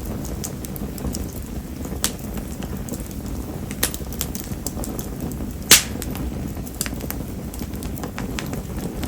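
Mayumi (spindle tree) firewood burning in an open fire, with a steady low rumble of flames, scattered light clicks and one sharper pop a little past halfway. This wood is known for hardly crackling and for burning hot.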